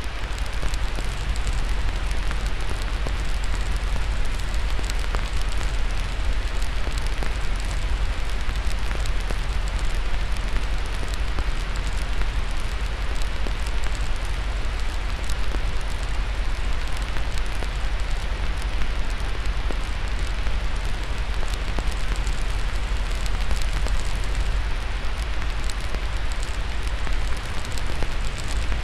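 Steady white-noise hiss with a deep low rumble, laid under a crackling fire whose small pops and snaps come at random throughout.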